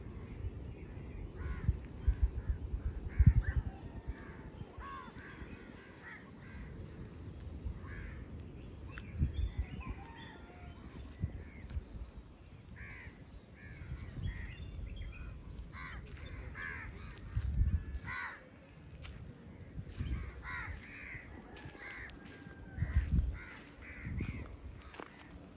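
Birds calling outdoors at dawn: many short calls one after another, with a few sliding whistled notes near the start. Low rumbles come and go several times.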